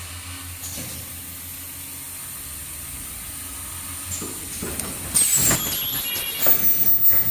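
Cup-shaped respirator mask making machine running: a steady low hum, then about five seconds in a sudden hiss of released air, followed by louder mechanical clatter and a thin high whine near the end.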